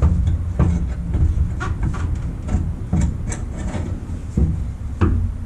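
Exhaust muffler and pipe being forced into place under a Ford Mustang, with repeated irregular clunks and knocks of metal against the car's underside and hangers, about eight in the few seconds.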